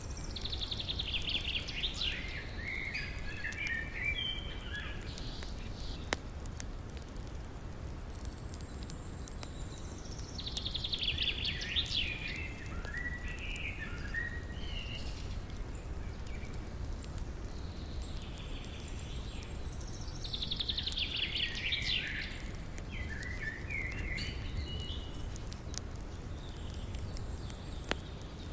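A songbird singing three phrases about ten seconds apart, each a quick high trill that falls into a few lower notes. Under it runs a steady low rush of flowing river water, with a few faint crackles from the fire.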